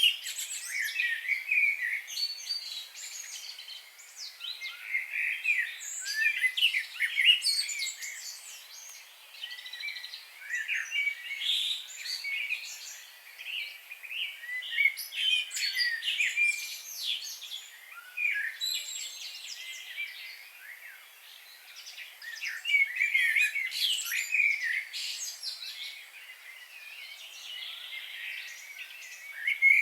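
Several wild birds chirping and singing at once: many short, quick notes and trills overlapping. The chorus comes and goes in waves, thinning out around 4 s, 9 s, 20 s and 26 s in before picking up again.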